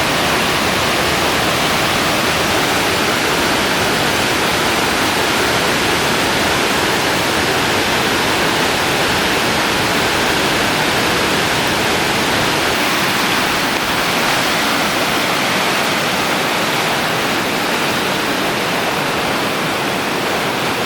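Flooded creek rushing past, a loud steady noise of fast, high water.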